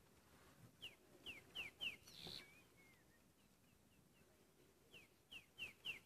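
Faint bird calls over near silence: a run of four short, falling chirps about a second in, softer single notes and a falling whistle in the middle, and another run of four falling chirps near the end.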